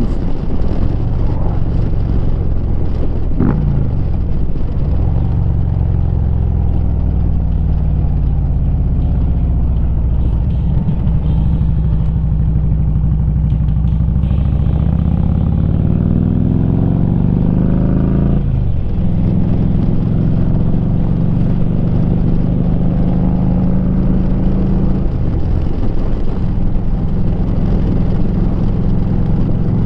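Harley-Davidson V-twin running through a Rinehart exhaust while riding, the engine note holding steady for long stretches. About halfway through it climbs for a few seconds, then drops off suddenly.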